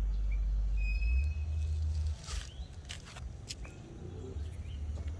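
Outdoor riverside ambience: a low rumble that drops away sharply about two seconds in, with a few faint bird chirps and scattered clicks.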